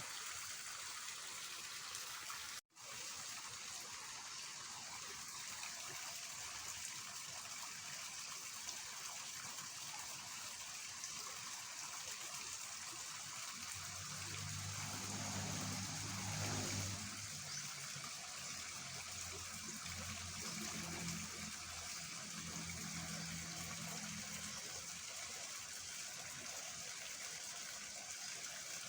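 Fast-flowing water in a rain-swollen ditch, a steady rushing hiss. A low drone joins it from about halfway through for roughly ten seconds. The sound cuts out for an instant about three seconds in.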